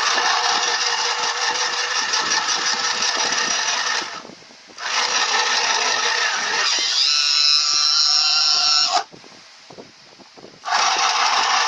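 Small battery-powered mini sewing machine running with a steady mechanical whir, stopping briefly twice and starting again.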